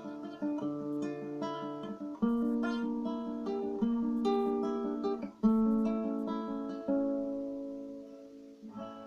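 Acoustic guitar playing the closing bars of a song: picked notes and several strummed chords, the last chord left to ring and die away.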